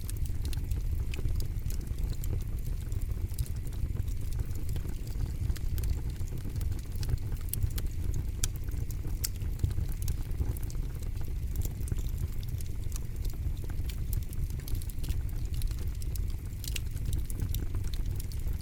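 Campfire crackling: a steady low rumble of burning wood under frequent sharp pops and snaps.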